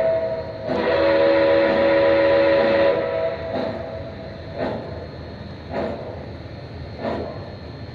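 Lionel O gauge TMCC locomotive's sound system blowing a long chord of horn or whistle for about two seconds. After that, the running train continues with a regular stroke about once a second.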